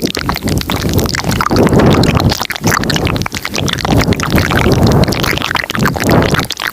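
Layered ASMR mouth sounds close to the microphone: many overlapping wet clicks and smacks in a dense, continuous stream, with soft low swells coming and going.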